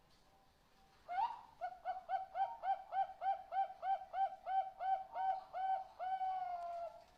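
Zebra dove (perkutut, Bangkok type) cooing. It gives one rising opening note, then a rapid run of about fifteen short coos at about three a second, and ends in one long drawn-out note.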